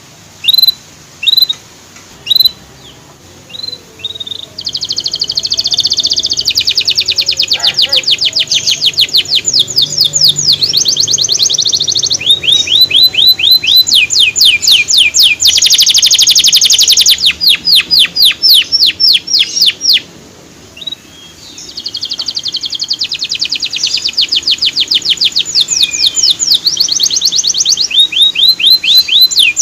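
Male canary singing: a few separate high chirps, then long, fast trills of rapidly repeated notes, with a short pause about two-thirds of the way through.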